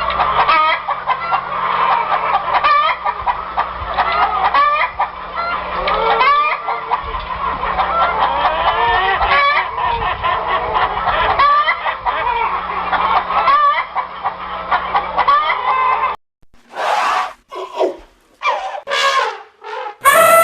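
A flock of chickens clucking, many overlapping short calls at once. About sixteen seconds in it cuts to a different recording: several separate short, loud calls with gaps between them.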